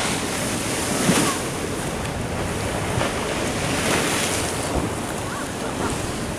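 Ocean surf washing in against a sea wall, with wind on the microphone. The wash swells about a second in and again around four seconds.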